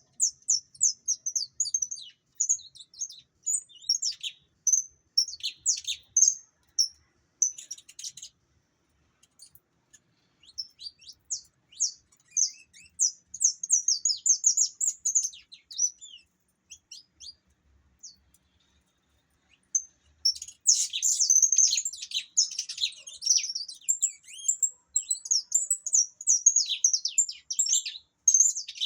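Saffron finch singing: phrases of quick high chirps and trills, with a long pause in the middle and a denser, faster run of song from about two-thirds of the way in.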